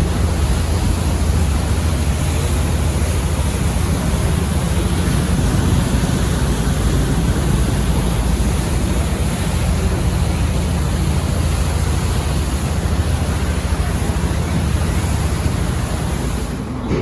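Steady wind noise buffeting the microphone over a low rumble, even throughout, easing slightly near the end.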